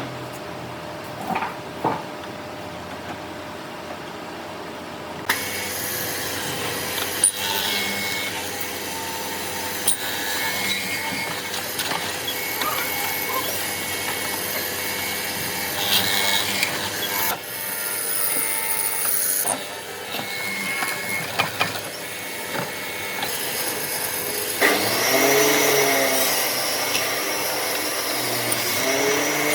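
A power tool working wood, with scattered knocks and clicks. It gets louder about five seconds in, and near the end the motor's pitch rises and falls.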